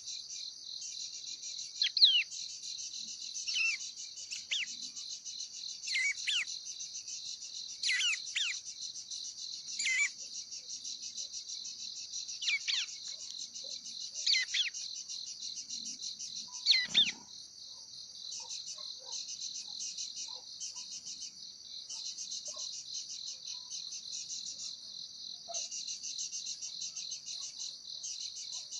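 Steady high-pitched trilling of crickets, with short pauses, while a bird gives a repeated sharp, falling call about every two seconds through the first half. A brief thump about halfway, after which only the insects go on.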